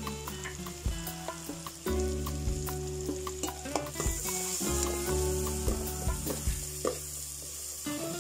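Chopped red onion and garlic sizzling in hot butter and oil in an aluminium pot, with a spatula stirring and scraping against the pot in short clicks. The sizzle brightens about four seconds in, over a low steady hum that shifts in steps.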